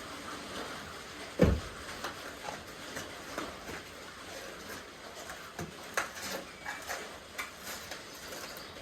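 Plasti Dip rubber coating being peeled off a truck's body, with scattered light crackles over a steady hiss and one sharp thump about a second and a half in.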